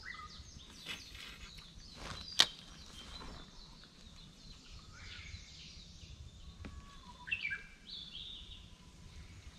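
Birds chirping and calling, a few short chirps early and a quick run of calls near the end. There is a single sharp click about two and a half seconds in, over low steady background noise.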